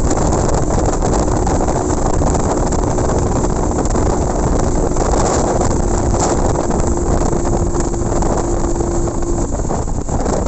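Motorcycle under way, with heavy wind rush on the microphone over a steady engine drone. The engine's tone drops away a little before the end.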